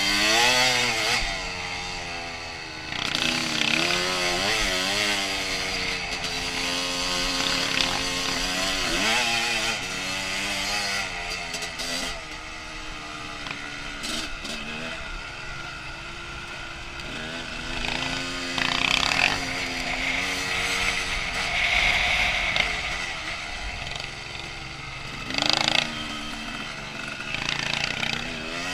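2001 Honda CR250's two-stroke single-cylinder engine being ridden off-road, its pitch rising and falling constantly as the throttle is worked on and off. A few brief louder bursts of noise come in the last third.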